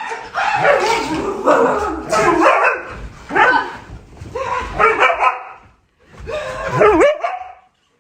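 A dog barking and vocalising in about five loud bouts, each with its pitch bending up and down.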